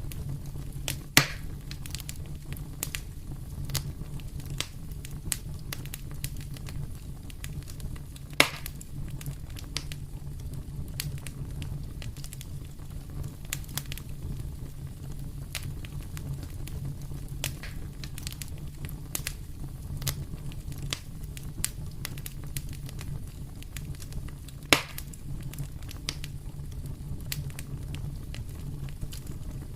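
Fire in a fireplace crackling: a steady scatter of small irregular crackles over a low rumble, with three louder sharp pops, about a second in, about eight seconds in and near the end.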